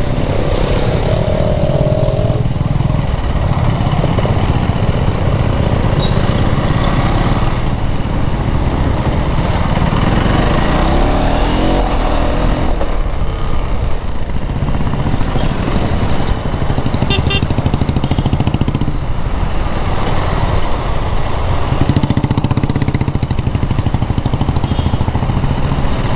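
KTM Duke 390 gen 3's single-cylinder engine running under way, its note rising and dropping several times as the revs change through the gears.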